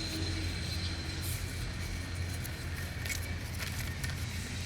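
Steady low background hum with a faint thin high whine, and no speech.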